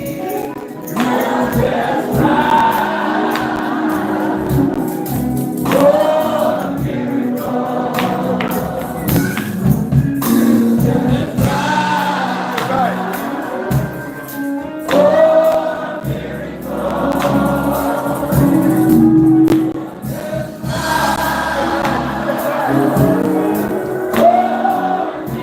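Gospel choir singing with band accompaniment and tambourine, in repeated sung phrases over a steady beat.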